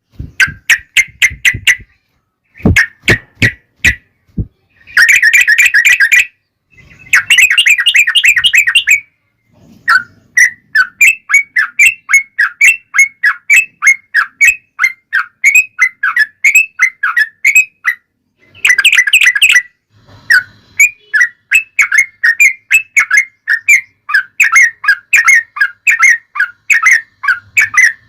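Yellow-vented bulbul (trucukan) song: loud, rapid runs of short bubbling whistled notes. It comes first in short bouts broken by brief gaps, then as a long, nearly unbroken chatter from about ten seconds in.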